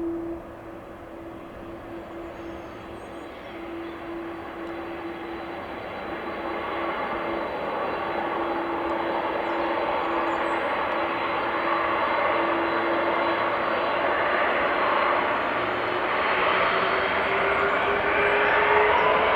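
Jet engines of a Boeing 747-400 freighter: a steady whine over a broad rush that grows steadily louder, with whines climbing in pitch near the end.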